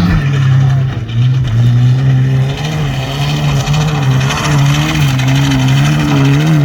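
Rally car engine running hard, its revs repeatedly dipping and climbing again as the throttle is lifted and reapplied.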